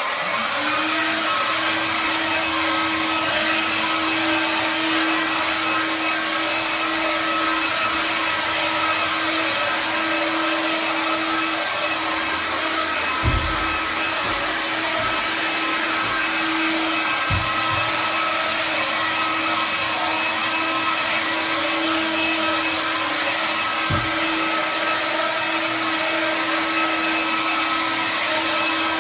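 Vax Air cordless vacuum cleaner switched on, its motor spinning up, then running steadily with a high whine as it sucks up dirt left on the floor. A few dull knocks come partway through.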